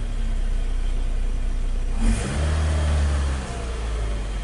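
Freshly rebuilt Saturn Ion four-cylinder engine running after its first start, smooth at idle. About two seconds in there is a short sharp noise and the engine is revved for about a second, then drops back to idle.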